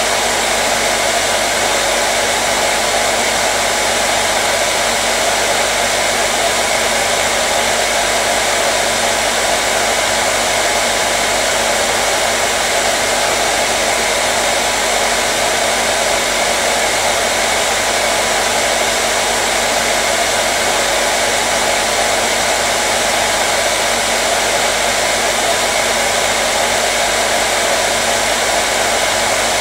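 Hair dryer running continuously: an even, steady rushing of blown air with a faint motor hum, no change in speed.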